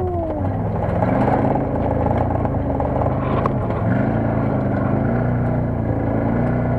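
Off-road buggy engine running under load, its pitch dipping and rising as the throttle changes.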